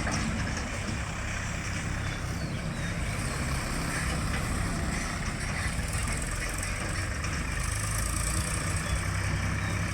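Heavy diesel engine of a working machine running steadily, a low even rumble with no change in speed.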